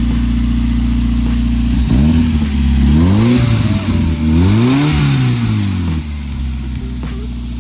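1990 Mazda Miata's 1.6-litre four-cylinder engine idling steadily, then revved twice, each blip rising and falling in pitch over a second or two, before settling back to idle, running after an exhaust gasket replacement.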